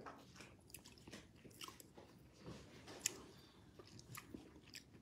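Faint close-up chewing and mouth sounds of someone eating seafood soup by hand: soft smacks and small scattered clicks, one slightly sharper about three seconds in.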